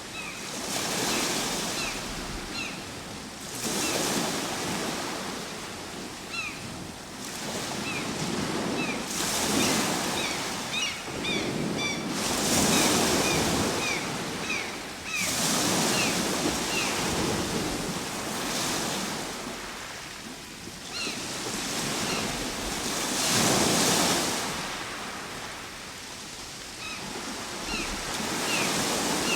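Ocean waves washing onto a shore, swelling and falling back in repeated surges every three to four seconds.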